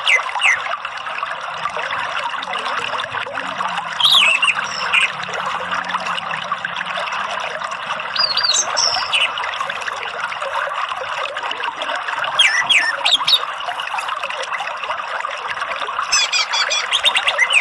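Steady flowing, trickling water with short whistled calls of an orange-headed thrush breaking in every few seconds: at the start, about four seconds in, around eight and twelve seconds, and a quicker run of calls near the end.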